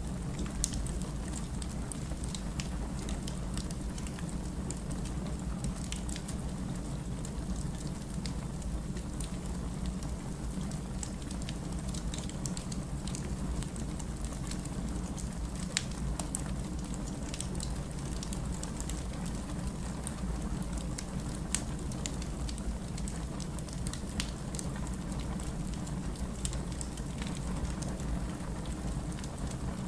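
Burning firewood crackling: scattered sharp snaps and pops over a steady low background.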